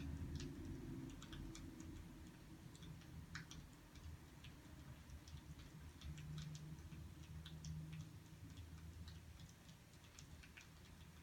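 Wood fire crackling: faint, irregular small pops and snaps over a low steady hum.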